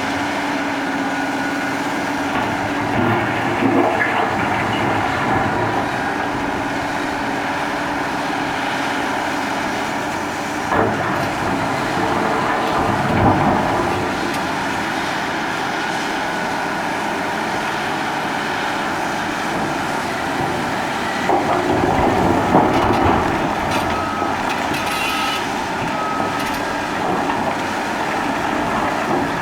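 Caterpillar 6015B hydraulic mining shovel running under work, a steady heavy diesel and hydraulic drone with louder swells. Three short high beeps sound near the end.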